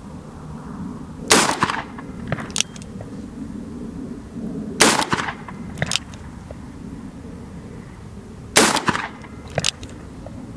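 Colt Trooper Mk III .357 Magnum revolver firing three shots about three and a half seconds apart. Each shot is followed about a second later by a fainter sharp crack.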